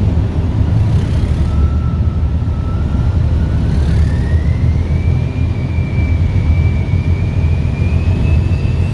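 A heritage diesel locomotive running with a heavy, steady rumble. A thin whine comes in after about a second and a half, rises in pitch over the next few seconds, then holds.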